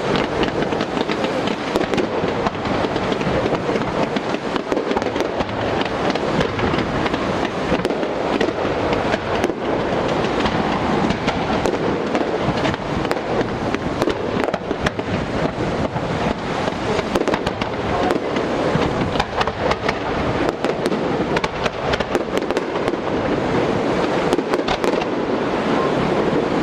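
Aerial fireworks display going off without a break: a dense, continuous run of crackles, pops and bangs.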